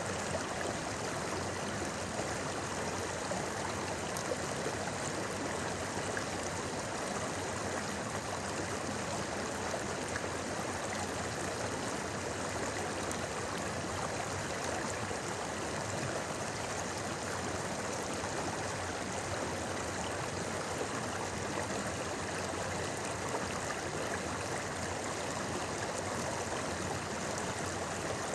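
A shallow river babbling over rocks: a steady rushing and gurgling of flowing water.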